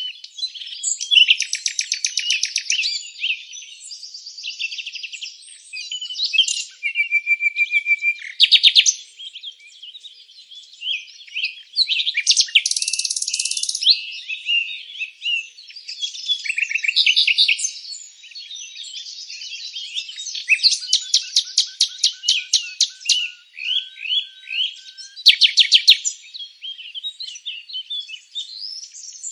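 Several songbirds singing at once: overlapping high chirps and fast rattling trills, nearly continuous, with brief short pauses between phrases.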